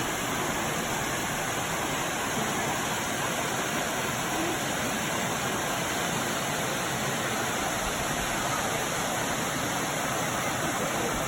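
Waterfall, the water falling and rushing in a steady, unbroken roar.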